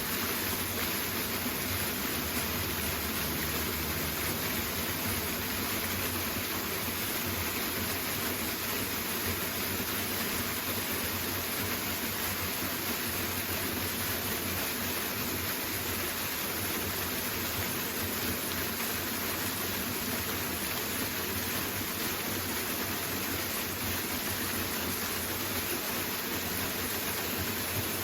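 Steady, unbroken rush of a powerful waterfall.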